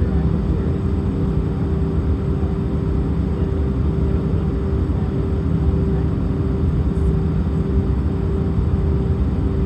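Airbus A319 cabin noise under engine power: a loud, steady low rumble of the jet engines and airflow with a constant hum running through it.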